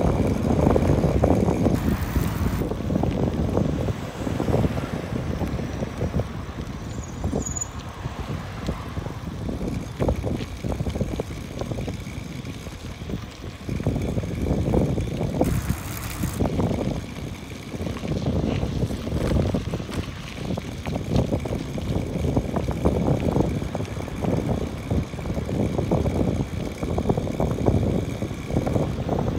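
Wind buffeting the microphone with road rumble from a moving bike, gusting louder and softer.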